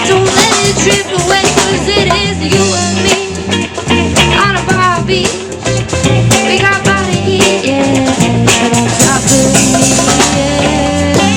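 Live rock band playing a song, with drum kit, bass, electric guitar and a sung or lead melody over a steady beat.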